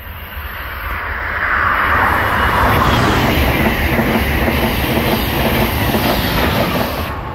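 Amtrak Acela Express high-speed electric trainset passing close at speed: a rising rush as the power car arrives, loudest about two seconds in, then a fast clatter of the coach wheels on the rails that drops away near the end.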